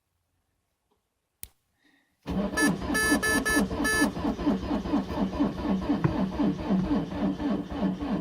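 A click, then the Citroen C5 diesel's starter cranking the engine in a steady rhythm without it firing, with a few short high beeps early in the cranking. This is a failed cold start at −11 °C with summer diesel in the tank.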